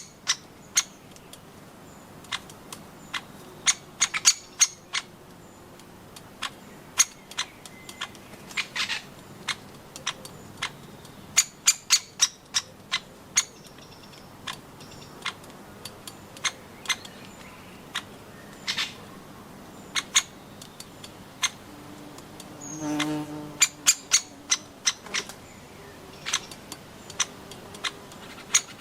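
Woodpeckers pecking at nuts: sharp, irregular taps, sometimes several a second, with a short, harsh call about two-thirds of the way through.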